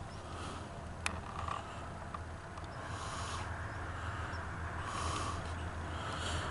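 Faint, steady low rumble of an approaching train's diesel locomotives, slowly growing louder, with one sharp click about a second in.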